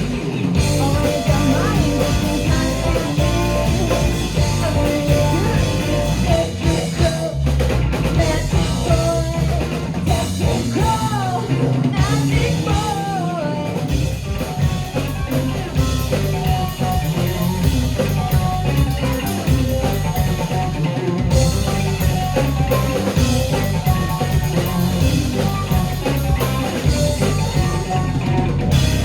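Live rock band playing loudly, with a drum kit and guitar, plus singing.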